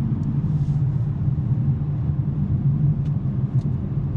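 Steady in-cabin drone of a 2023 BMW M3 G80's twin-turbo inline-six cruising at constant speed through a non-resonated J-pipe exhaust, with road noise. A few faint, short ticks come from an interior rattle that the owner cannot locate.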